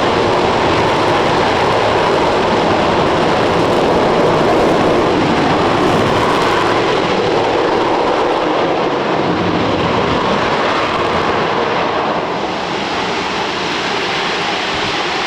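RS-25 rocket engine (a former Space Shuttle main engine), No. 2062, firing steadily on a test stand during a full-duration hot-fire test: a loud, dense, continuous roar, easing slightly about twelve seconds in.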